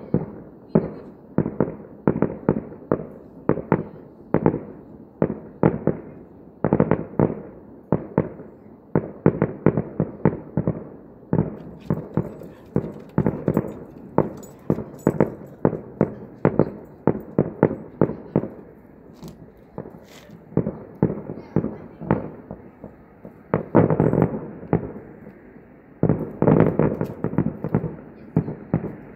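Fireworks display bursting at a distance: a rapid string of sharp bangs, several a second, each trailing off in an echo, with thicker volleys about seven, twenty-four and twenty-seven seconds in.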